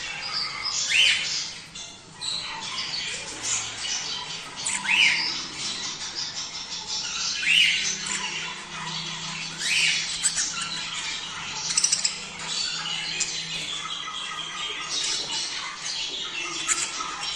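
A flock of budgerigars chattering and warbling without a break, with a louder sharp call standing out every few seconds.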